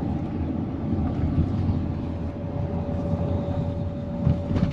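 Road noise of a vehicle driving: a steady low rumble, with a steady whine joining about two seconds in.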